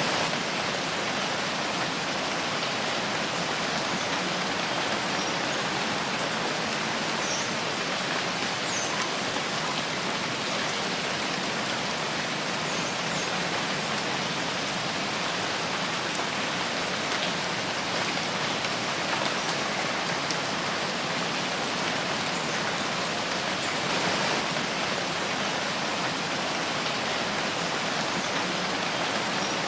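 Steady rain falling in a forest, an even hiss of drops on leaves and ground.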